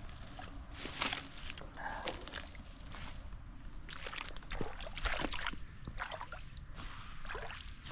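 Shallow flood water sloshing and splashing in irregular bursts, a few seconds apart, over a steady low rush of water.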